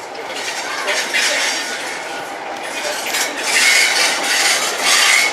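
Train wheels on the rails with metallic squealing and clanking, growing louder in the second half.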